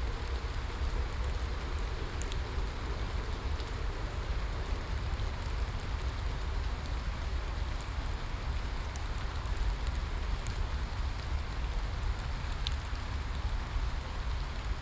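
Steady rain falling, an even hiss with scattered sharp ticks of single drops and a deep low rumble underneath.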